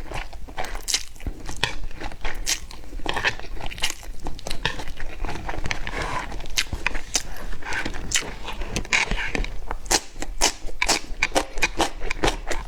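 A person biting and chewing crunchy food close to the microphone: many irregular sharp crunches and crackles.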